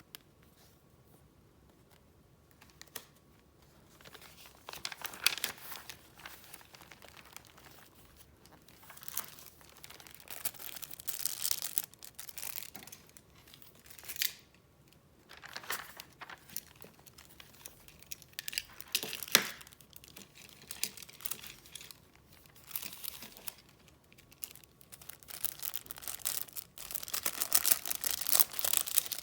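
Paper and gift packaging handled close to the microphone: rustling and crinkling in irregular bursts, with a sharp snap about nineteen seconds in and denser crinkling near the end.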